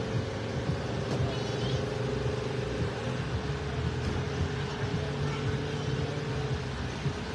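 Mustang drag car's engine idling with a choppy, uneven rumble as it rolls down the strip at idle instead of making a full pass.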